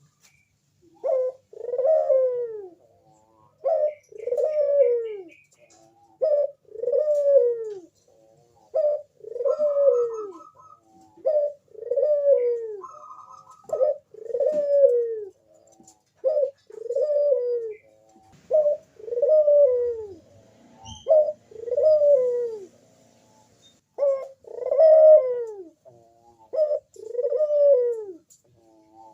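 Crossbred ringneck (puter) dove cooing its 'manggung' call: each phrase is a short note followed by a longer coo that rises and falls, repeated roughly every two and a half seconds.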